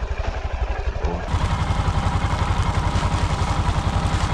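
Motorcycle engine idling with an even, steady beat.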